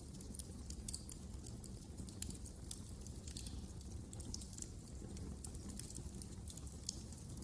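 Wood fire crackling in a fireplace: frequent irregular sharp crackles and pops over a steady low rumble of the burning fire.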